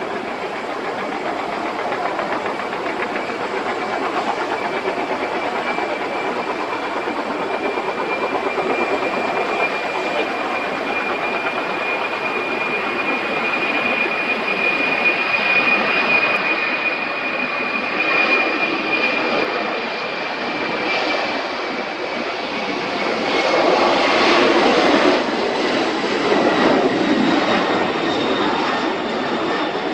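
Boeing 747-400 freighter's four jet engines roaring, with a steady high whine running through it. The noise builds louder in the later part.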